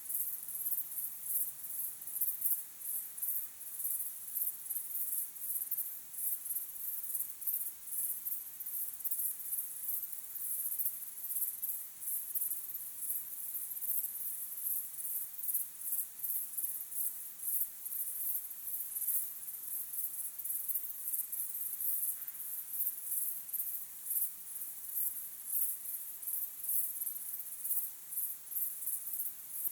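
Crickets chirping in a dense, steady chorus of rapid, very high-pitched pulses.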